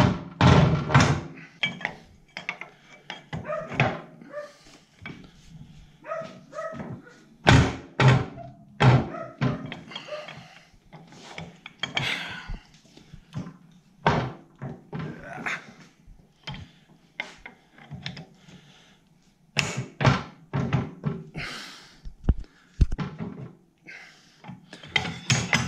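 Irregular metal clunks and knocks of a pipe wrench on a long cheater pipe being worked against the threaded guide of a tractor's hydraulic bucket cylinder, breaking it loose and turning it out.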